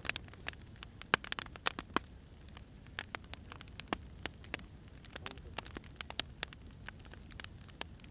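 Firewood fire crackling: irregular sharp pops and snaps, several a second and of varying loudness, over a low steady rumble.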